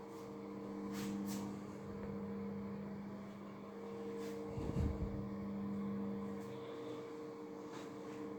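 A steady low hum made of several held tones, with a few faint clicks and one dull thump about five seconds in.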